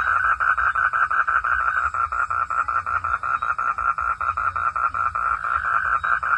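Frogs calling in a chorus at night: rapid, even pulses repeating about seven or eight times a second, with a low rumble underneath.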